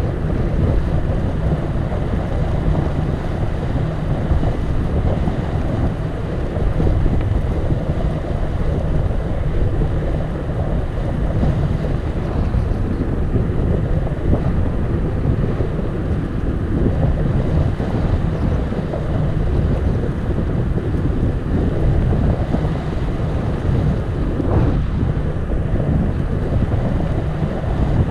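Wind buffeting the camera microphone while riding a bicycle: a steady, loud low rumble with no let-up.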